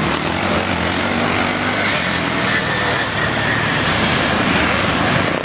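Motocross motorcycle engines running hard on the track, their pitch rising and falling as the riders work the throttle.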